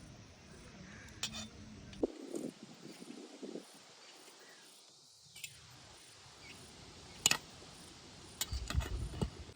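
Scattered light clicks and clinks of utensils against dishware, with one sharper click about seven seconds in and a short run of knocks near the end.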